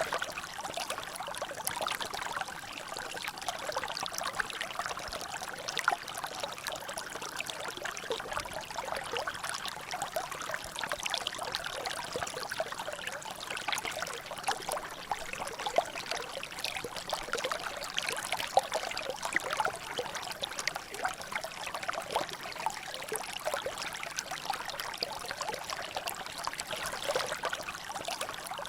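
Water trickling and dripping in a small natural drainage: a steady, even run of many small splashes and drips.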